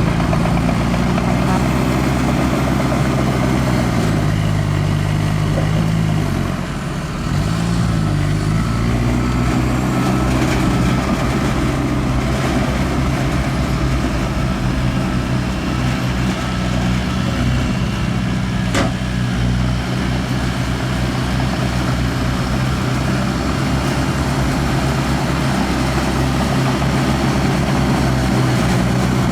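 Diesel engine of heavy earthmoving equipment running; its pitch drops about four seconds in, sags briefly a few seconds later, then climbs back and holds steady. A single sharp click near the middle.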